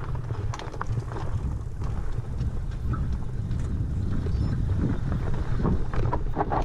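Wind rumbling on the microphone while riding a fat-tire tandem bike over trail, with scattered clicks, knocks and rattles from the bike and tyres on rough ground; they come thicker near the end.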